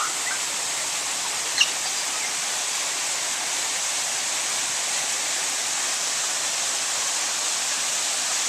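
Steady rushing hiss throughout, with one brief, sharp bird call about a second and a half in.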